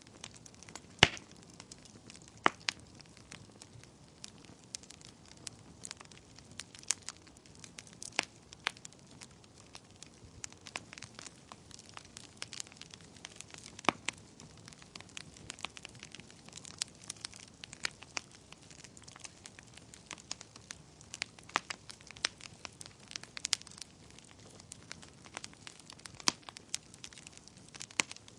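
Wood fire crackling in a fireplace: irregular sharp pops and snaps over a faint hiss of the flames, with a few louder pops about one and two and a half seconds in.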